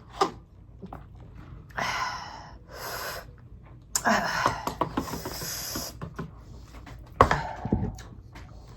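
Hard, noisy breaths and panting through the mouth, the reaction to the burn of very spicy ramen noodles, with a sharp thump about seven seconds in.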